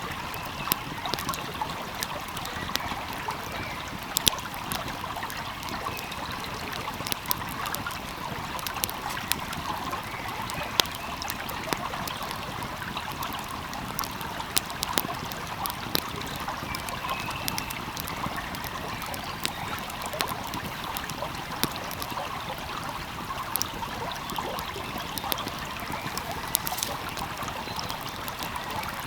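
Wood fire crackling, with frequent sharp pops and snaps scattered irregularly over the steady rush of a flowing stream.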